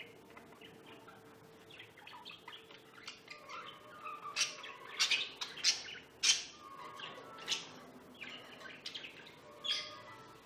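Pet lovebirds chirping and squawking in a run of short, high-pitched calls. The calls grow busier and louder in the middle, with several sharp squawks standing out.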